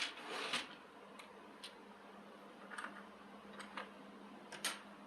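Irregular light clicks and taps of small parts being handled while a model vehicle is taken apart, with a short cluster at the start and then single ticks every second or so, over a faint steady hum.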